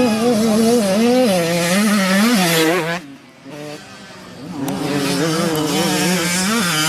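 Dirt bike engine revving up and down as the throttle is worked, the pitch rising and falling every half second or so. It drops away about three seconds in, then builds again.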